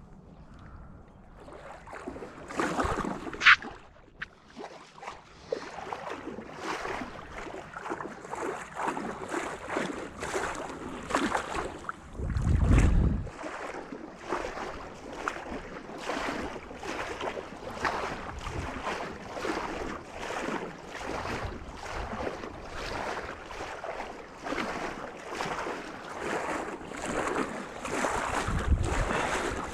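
Water splashing in regular strokes, about one to two a second, with wind on the microphone. A loud low thud comes about twelve seconds in.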